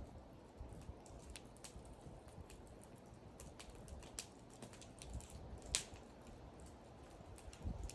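Wood fire crackling: irregular sharp pops and snaps from the burning wood over a low steady rush of flame, with one louder pop a little before six seconds.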